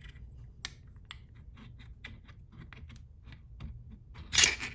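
Light, irregular clicking and scraping of a ring-resizer tool being rocked back and forth over a freshly fitted seal ring on a 4L60E transmission part, with a louder brief scrape near the end.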